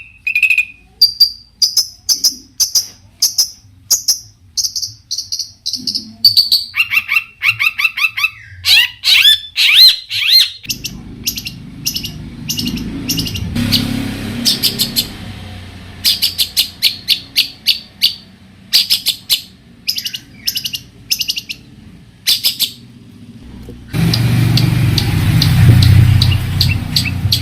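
Long-tailed shrike (cendet) singing a fast, varied song of sharp repeated chirps, clipped notes and quick rising whistles, switching from one phrase type to the next every second or two. A low rushing noise sits under the song in the middle and near the end.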